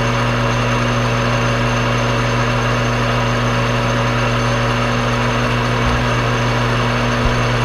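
Metal lathe running steadily while a carbide boring tool cuts out the inner bore of a steel part, a constant machine hum with an even hiss over it.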